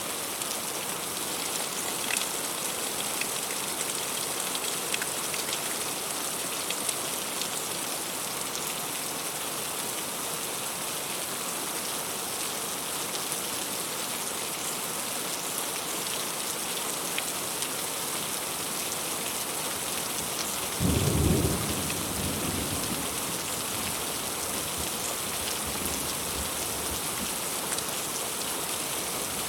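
Heavy rain falling steadily, an even hiss with scattered sharp drop impacts. About two-thirds of the way through, a short low rumble of thunder breaks in and trails off over a few seconds.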